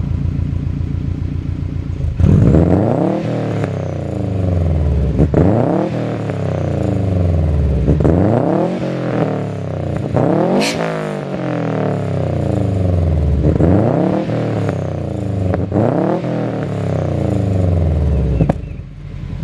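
Built Subaru WRX's turbocharged flat-four engine revving through a Skunk2 cat-back exhaust. It idles at first, then gives a run of repeated revs that rise and fall in pitch, and settles back to idle near the end.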